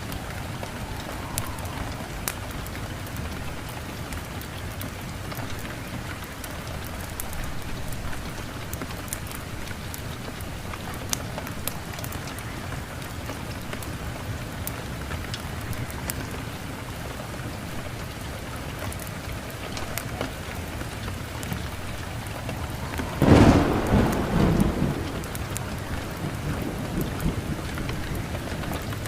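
Steady rain falling, with scattered sharp ticks. Near the end a clap of thunder breaks in and rumbles for about two seconds before fading back into the rain.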